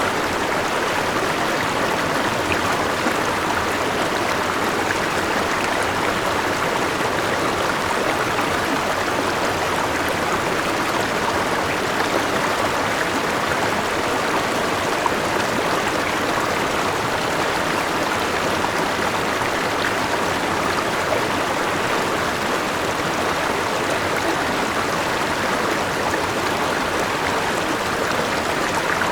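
River water flowing steadily, a continuous even rush with no breaks or changes.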